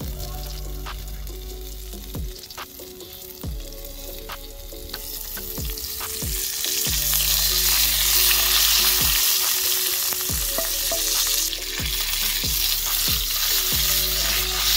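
Asparagus spears sizzling in oil in a hot cast iron skillet. The sizzle swells louder about five seconds in and then holds.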